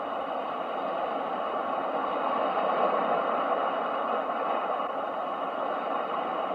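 Steady white-noise rush of an ocean-waves sleep sound, swelling gently about halfway through and easing off again.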